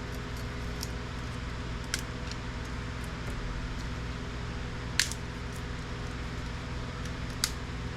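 A few sharp clicks and snaps, three clear ones, as a glued-down circuit board is pried loose from a printer's plastic scanner arm, over a steady low background hum.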